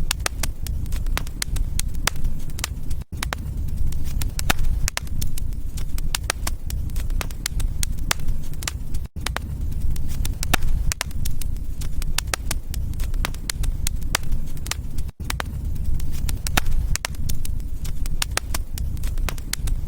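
Wood fire crackling and popping over a steady low rumble of flames, with brief gaps about every six seconds.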